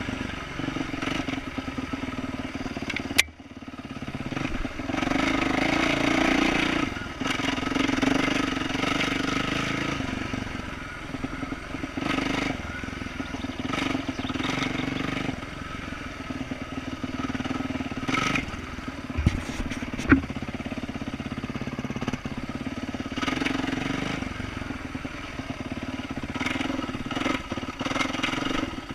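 2012 Yamaha YZ450F's single-cylinder four-stroke engine with aftermarket exhaust, running and rising and falling with the throttle. A sharp knock comes about three seconds in, followed by a brief drop in the engine sound, and another knock about twenty seconds in.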